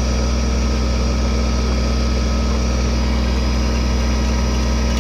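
Kubota tractor's diesel engine running steadily while its backhoe is worked, a constant even drone with no change in speed.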